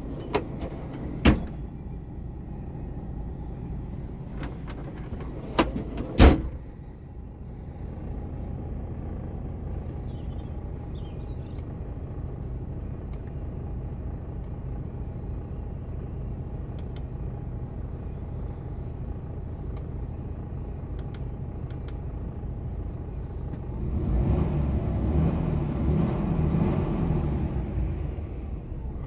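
DAF XF 480 tractor unit's diesel engine running at idle with a steady low hum, two sharp knocks in the first few seconds, and the engine running louder and rougher for about four seconds near the end.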